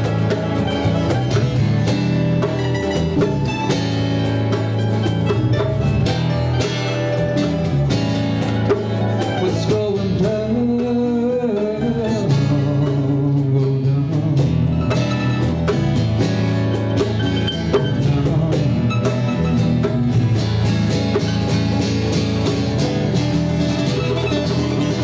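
Live band playing an instrumental passage: guitars, bass guitar and drum kit keeping a steady beat. The drums drop back briefly about ten seconds in while a bending melody line carries on.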